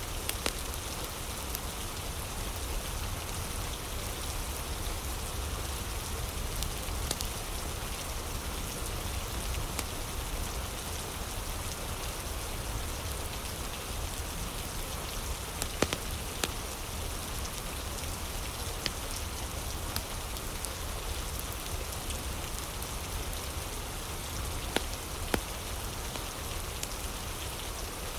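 Steady rain hissing, with a few sharp pops and snaps of a crackling wood fire, the loudest about halfway through and again near the end.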